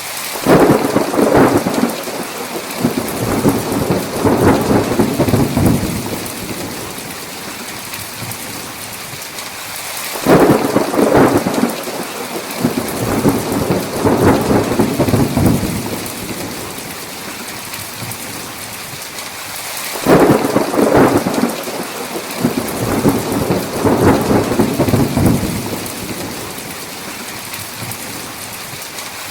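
Heavy rain falling steadily, with three rolls of thunder about ten seconds apart. Each roll starts suddenly, rumbles for several seconds and fades back into the rain.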